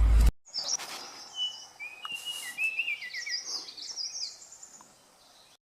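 A small songbird singing quick runs of high, sliding, warbling notes. The song follows a loud low rumble that cuts off sharply in the first moment, and it ends abruptly near the end.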